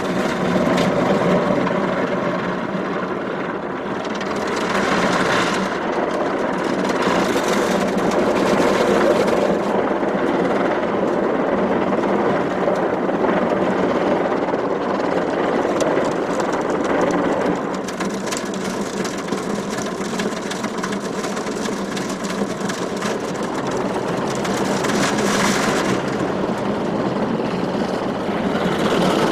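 Automatic car wash machinery working over a car: a loud, continuous rush of water and mechanical noise with a steady hum beneath it, swelling brighter now and then.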